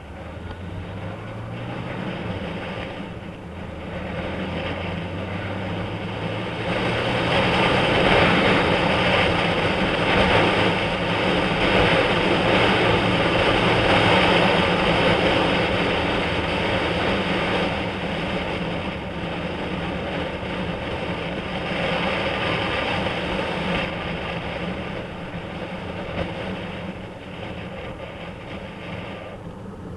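Honda CB1000SF inline-four motorcycle engine pulling up through the revs, heard from on board. A loud rush of wind at speed builds after about seven seconds and eases off in the last third.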